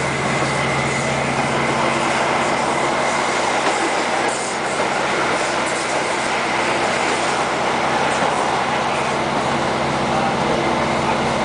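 ScotRail Class 156 diesel multiple unit running at speed, heard from on board: a steady drone of the underfloor diesel engine and wheels on rail, with a thin high whine running through it.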